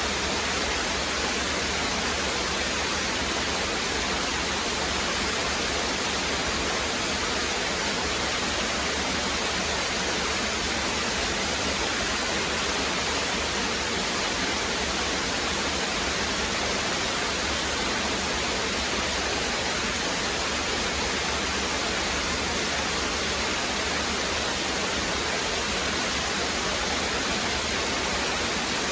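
A rocky brook running steadily, water splashing and rushing over the stones in a constant, even wash.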